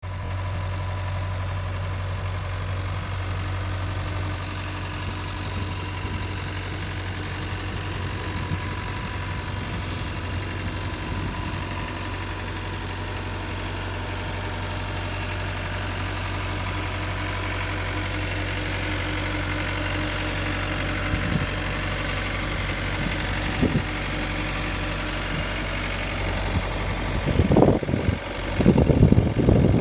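Cat skid steer loader's diesel engine idling steadily, a constant low hum with a thin steady whine above it. Near the end a few louder, irregular knocks and clunks come in over the idle.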